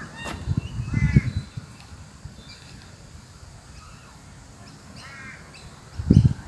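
A crow cawing twice, a short call about a second in and another about five seconds in, over an open-air background. Low dull thumps near the start and about six seconds in are louder than the calls.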